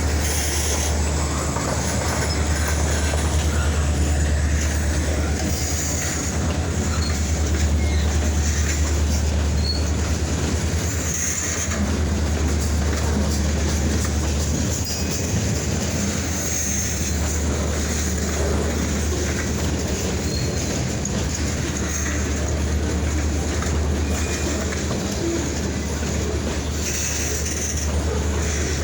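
Freight train rolling past, its cars' wheels clacking over the rail joints with a steady low rumble and brief high wheel squeals now and then.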